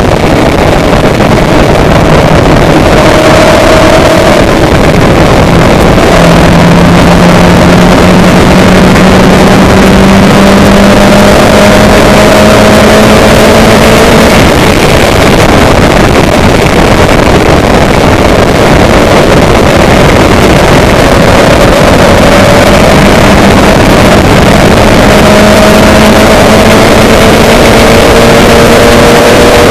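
A vehicle's engine running under heavy wind and road noise. Its pitch climbs slowly for about fourteen seconds, drops back, and climbs again as it gathers speed.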